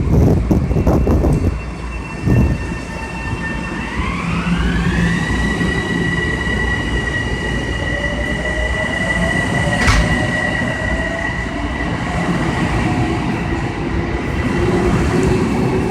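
Metro-North Hudson Line electric train at the station, rumbling with a high whine that glides up in pitch about four seconds in and then holds steady. A lower tone rises slowly through the second half, and there is one sharp click about ten seconds in.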